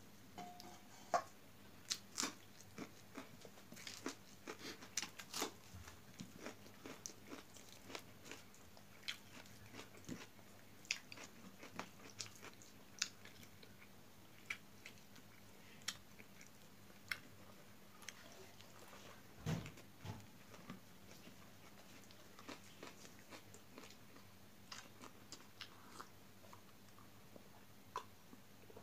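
Close-up chewing and crunching of a mouthful of food, with many short, sharp mouth clicks and crackles at irregular intervals.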